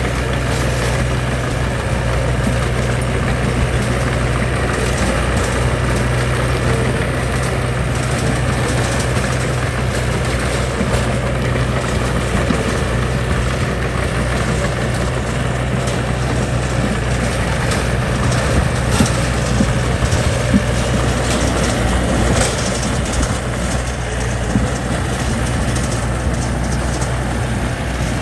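Diesel engine of heavy earthmoving machinery running steadily at a low, even hum, with a few light knocks partway through.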